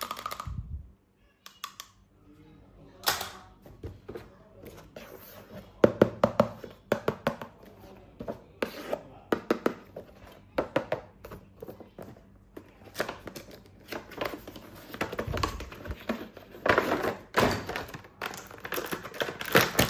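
Toy packaging being handled and opened: irregular thunks and clicks with tearing and crinkling of packaging.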